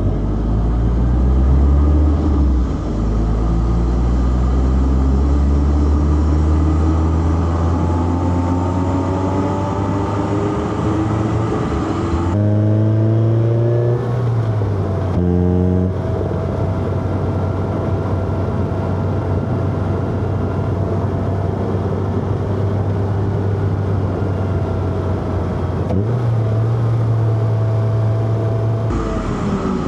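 Four-cylinder car engine with a manual gearbox, pulling under load. Its pitch climbs for about twelve seconds, then changes abruptly twice a little under halfway through as it shifts gear, and runs steadier after that, with another shift near the end.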